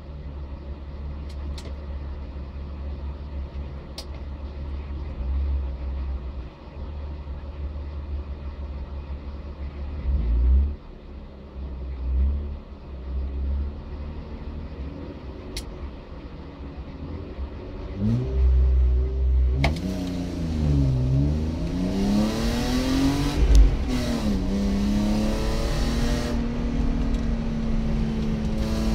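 BMW E36 320i's 2.0-litre 24-valve straight-six heard from inside the car, idling at the start line with a few quick blips of the throttle. About 18 seconds in it launches: the revs climb sharply, dip and climb again at each upshift, then hold high as it drives off at racing pace.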